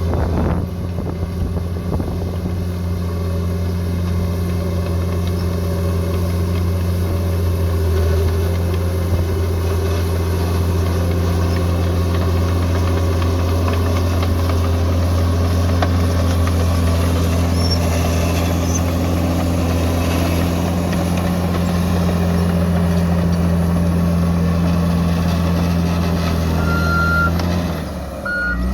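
Bulldozer's diesel engine running steadily at working speed. Its reversing beeper starts up again near the end.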